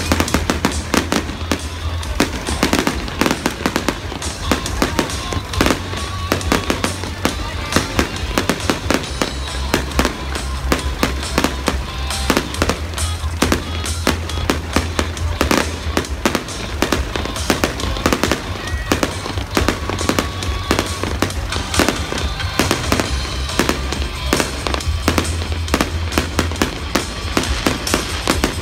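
Fireworks display: a dense, unbroken run of sharp bangs and crackling shell bursts, several a second. Music plays beneath with a steady low bass.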